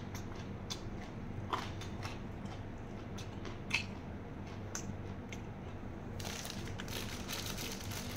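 A person chewing a mouthful of crunchy raw vegetable with the mouth closed: sharp single crunches about a second apart, then a denser run of crackling crunches from about six seconds in.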